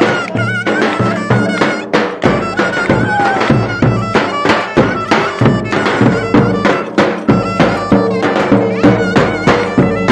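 Turkish folk dance music from a live band: an ornamented wind-instrument melody over steady low tones and a quick, regular drum beat.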